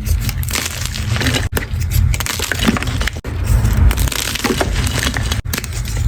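Chalk being crushed: dense, close crunching and crackling as pieces break and crumble. There are brief drops in the sound about a second and a half, three seconds and five and a half seconds in.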